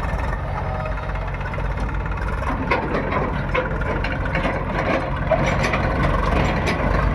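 Heavy diesel engine running steadily, with scattered sharp knocks from about two and a half seconds in.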